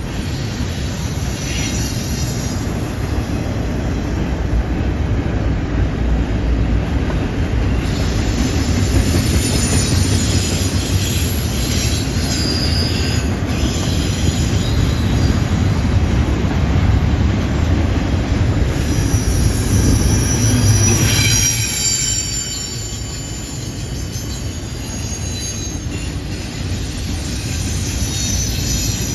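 Freight train cars rolling through a curve, with a steady heavy rumble and clatter of wheels on rail. High-pitched wheel squeal from the curve comes and goes, loudest about two-thirds of the way through, after which the rumble eases a little.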